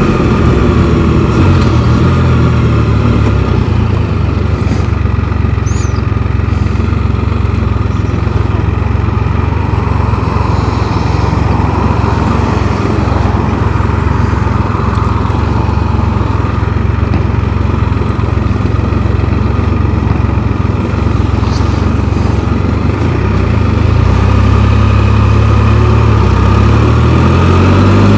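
Can-Am Spyder three-wheeled motorcycle engine running steadily at road speed. Its pitch drops just at the start, then it gets louder about 24 seconds in and the pitch rises near the end as it accelerates.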